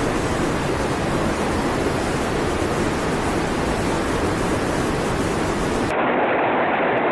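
Steady rushing noise of heavy water, even and unbroken. About six seconds in it cuts abruptly to a duller, muffled recording of a similar rushing sound.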